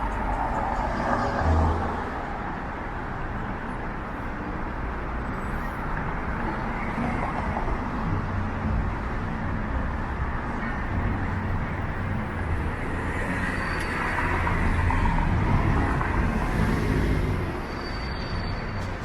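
City street traffic: a steady low rumble of cars and buses running past, with one vehicle passing louder near the end.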